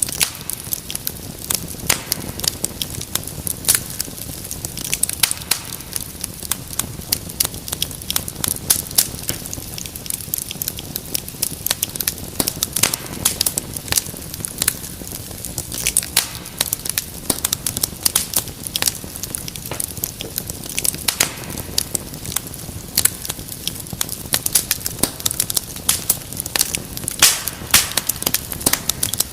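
Wood fire in a fireplace crackling, with dense irregular pops and snaps over a steady low rumble of the flames.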